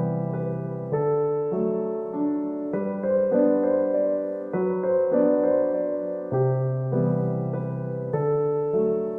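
Slow, gentle piano music: soft chords struck about once every one to one and a half seconds, each left to ring and fade.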